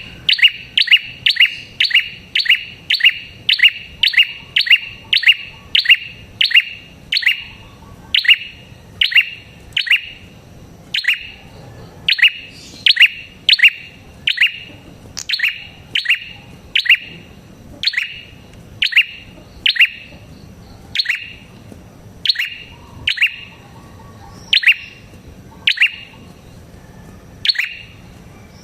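A prenjak, the bird sold as the 'red-headed prenjak' (prenjak kepala merah), calling a long series of loud, sharp chirps, each a quick downward sweep. The chirps come about three a second at first, then slow to about one a second.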